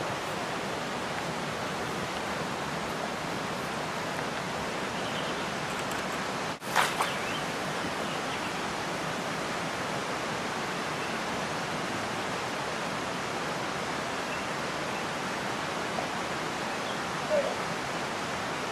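Steady rush of flowing stream water. A brief break with a knock about a third of the way in.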